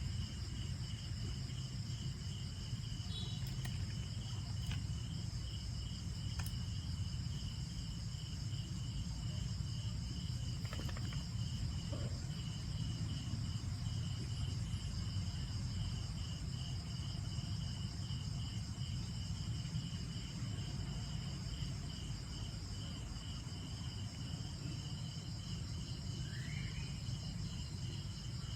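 Insects, crickets or similar, chirping in a steady pulsing chorus of several high, even trills, over a steady low rumble.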